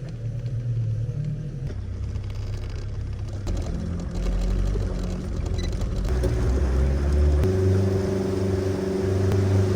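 The fishing boat's petrol engine running at low speed, a steady low hum whose pitch shifts a few times as the throttle changes.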